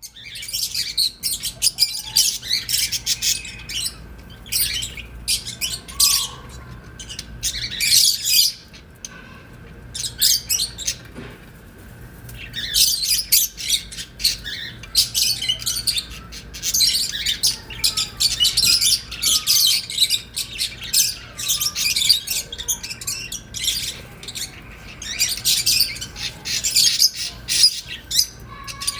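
A flock of ornamental cage birds chirping and squawking in dense, overlapping bursts, with a brief lull about ten seconds in.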